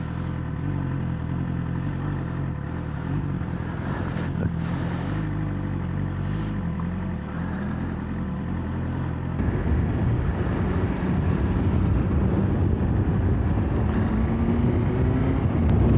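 BMW S1000XR's inline-four engine running at steady revs while riding. About nine seconds in it gets louder and rougher, and near the end the revs rise.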